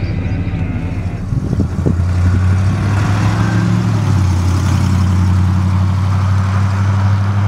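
1967 Oldsmobile 442's V8 running at a steady, unhurried pace, a low even exhaust note that grows louder about a second in.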